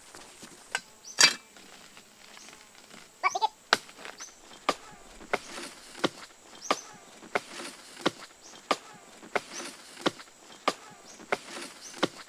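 Sharp knocks: a few irregular ones, the loudest about a second in, then an even beat of about three knocks every two seconds from about four seconds in.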